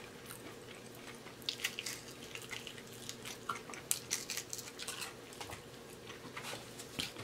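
A fried chicken wing being bitten and chewed close to the microphone: soft, scattered wet mouth clicks and smacks.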